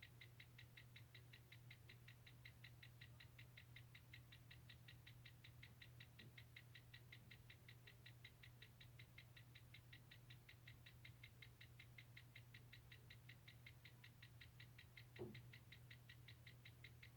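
Mini washing machine running faintly: a steady low motor hum with a fast, even ticking of about five ticks a second, and a single soft knock near the end.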